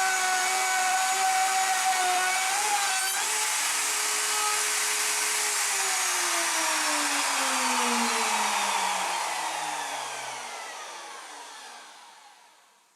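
Wood router motor whining at full speed through a rabbet cut, its pitch shifting about three seconds in. About five seconds in it is switched off and spins down, the whine falling steadily in pitch and fading out over several seconds.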